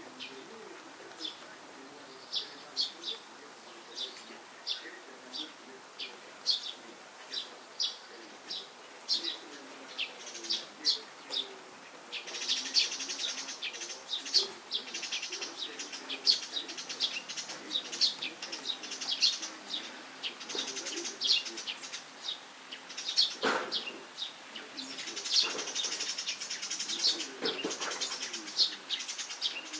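Small birds chirping: single short chirps about once a second, joined about twelve seconds in by a denser chatter of many chirps. Two dull thumps, a little past the middle and near the end.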